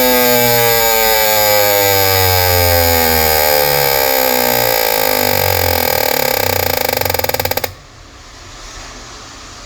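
Fuel injectors firing rapidly on an injector test bench, a loud buzz whose pitch slowly falls as the pulse rate drops, cutting off suddenly about three-quarters of the way through.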